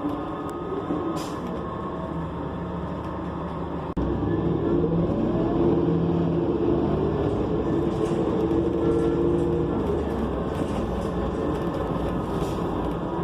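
Interior sound of a New Flyer XN40 transit bus: its Cummins Westport ISL G natural-gas engine and Allison B400R transmission running. About four seconds in the sound steps up suddenly and a rising whine follows as the bus accelerates, then holds steady.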